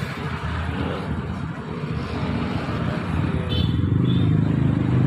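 Motorcycle engine running, getting louder from about three and a half seconds in as the bike pulls up close.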